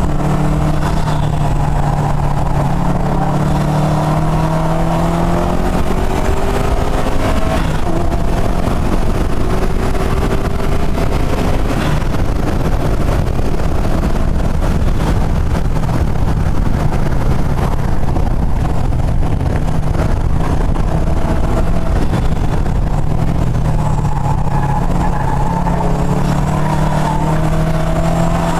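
Subaru WRX STi's turbocharged flat-four engine accelerating hard, its pitch rising over the first several seconds and again near the end, with less engine in between. Heavy wind and road noise runs underneath throughout.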